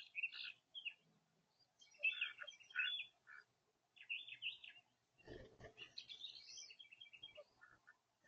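Small birds chirping and twittering in short bursts of quick notes, with one rising whistled note about six seconds in. A brief low thump sounds a little after five seconds.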